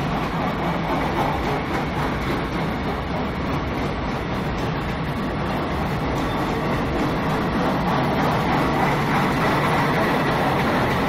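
Passenger coaches of an express train running through a station at speed: a steady rumble and rush of wheels on rail, a little louder near the end.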